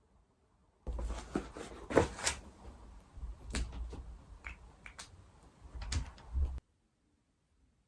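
A run of sharp clicks and knocks over a low rumble, starting and cutting off abruptly.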